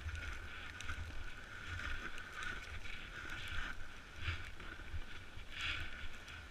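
Snowboard sliding down a snowy slope, its edges scraping the snow in repeated hissing swishes, with wind buffeting the microphone in a low rumble.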